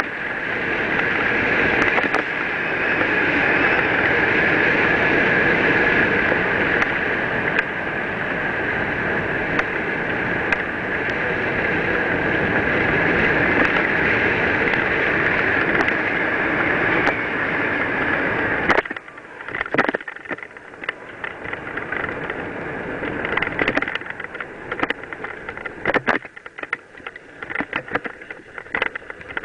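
Mountain bike descending a dirt trail: a steady rush of wind noise on the microphone together with the hiss of the tyres. About two-thirds of the way in the rush drops away suddenly, leaving the rattle and knocks of the bike over bumps.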